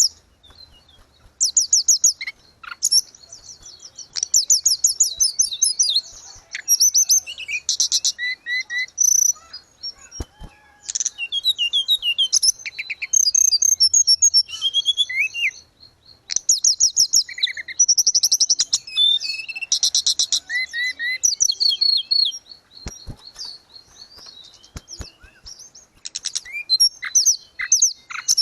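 Hill blue flycatcher (tledekan gunung) singing. It gives a continuous run of high, rapid trills and short sliding whistled notes, with brief pauses between phrases.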